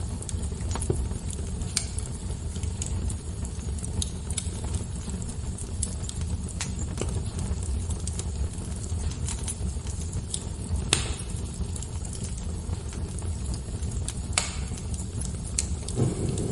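Fire crackling: scattered sharp pops and snaps over a steady low rumble, with the two loudest pops about eleven and fourteen seconds in.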